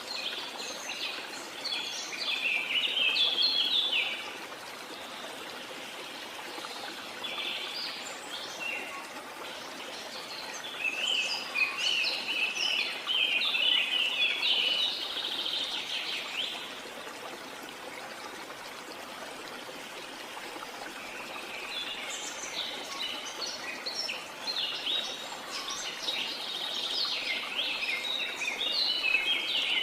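Birds chirping in quick, busy bouts, three times over, above a steady rush of flowing water.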